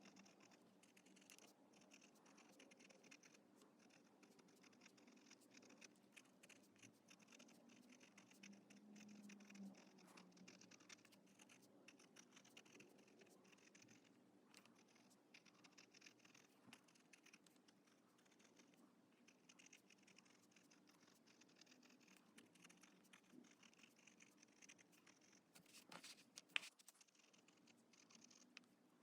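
Faint scratching of an Esterbrook Estie fountain pen's italic nib writing steadily on paper, with small ticks as the strokes start and stop. A single sharper tap about 26 seconds in.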